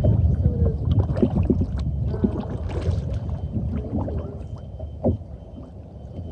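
Water sloshing and splashing around a kayak as it is paddled, with scattered small splashes and a single knock about five seconds in, the sound dying down toward the end.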